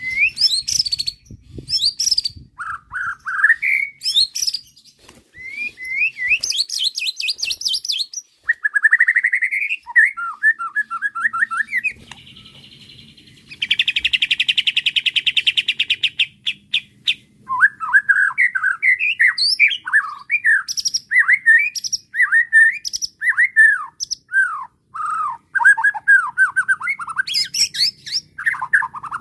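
White-rumped shama (murai batu) singing a long, varied song of whistled phrases with rising and falling slurs. About halfway through comes a rapid buzzy rattle, then a run of quick down-slurred notes.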